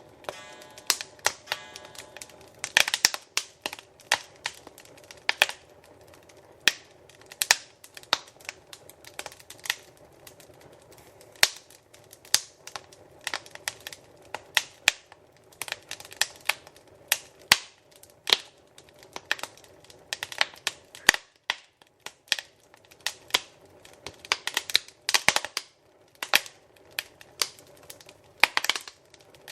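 Wood fire crackling in a fireplace: irregular sharp pops and snaps, often in quick clusters, over a low steady rush of the flames.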